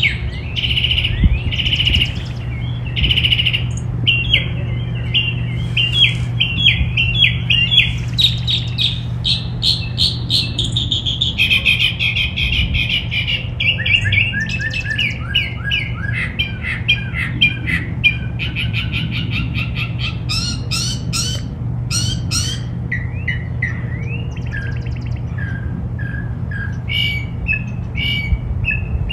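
Several backyard songbirds chirping and singing over one another in rapid repeated notes and trills, over a steady low hum.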